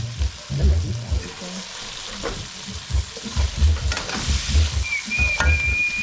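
Boiled sweet potato chunks frying with onion and garlic in a stainless steel wok, sizzling while a metal slotted spoon stirs and scrapes them around the pan, with repeated dull knocks as it goes. A thin high whine starts about five seconds in.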